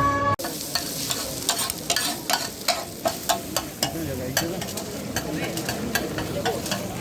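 Noodles being stir-fried in a wok: steady frying sizzle with a metal spatula scraping and striking the pan about three times a second.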